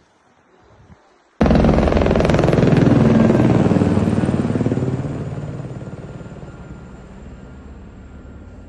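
Helicopter rotor beating loud and fast, starting abruptly about a second and a half in, then fading steadily as it moves away.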